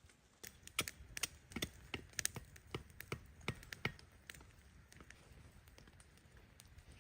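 An irregular run of sharp taps and clicks, several a second through the first four seconds and thinning out after.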